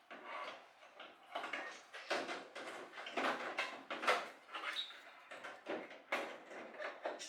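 Irregular hand-work noises: rubbing, scraping and light knocks on parts, a few each second.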